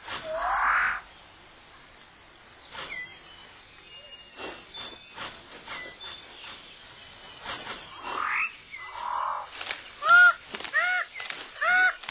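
Rainforest birds calling over a steady high insect drone: rising sweeping calls near the start, scattered short notes, then from about ten seconds a run of loud repeated calls, about two a second.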